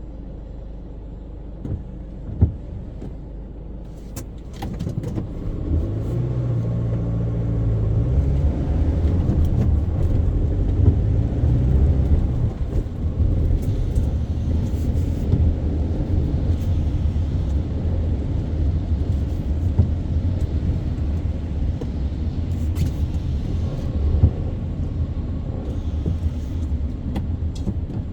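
Car driving in traffic: a low, steady engine and road rumble that grows louder about five seconds in as the car pulls away and gathers speed, with a few short knocks.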